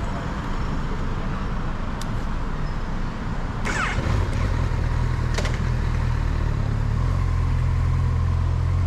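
Motorcycle engine running. A clack sounds a little before four seconds in, and from about four seconds the engine settles into a steady, slightly louder low note, with a few sharp clicks around it.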